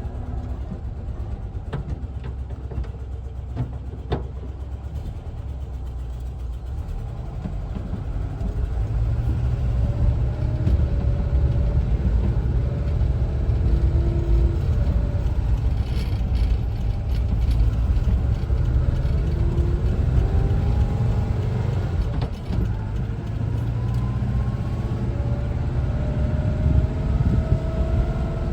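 1974 Volkswagen Westfalia camper's air-cooled Type 4 flat-four engine running while driving. It is quieter for the first several seconds, then louder from about eight seconds in as the bus pulls away. Rising whines come in the last third as it speeds up.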